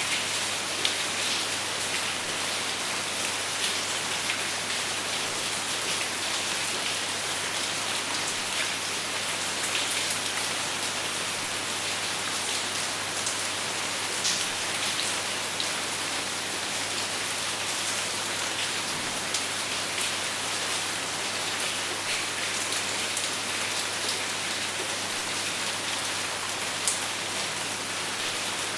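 Steady rain falling, an even hiss with scattered individual drop ticks, and no thunder.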